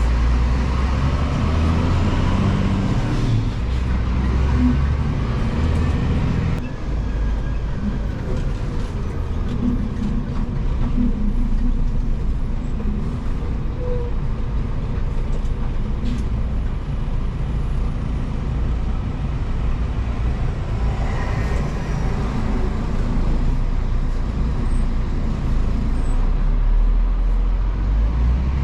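Scania vacuum truck driving on the road: steady diesel engine drone and road noise, the engine note changing about six seconds in.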